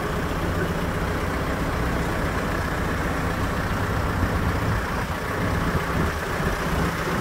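Hidromek 102S backhoe loader's diesel engine idling steadily.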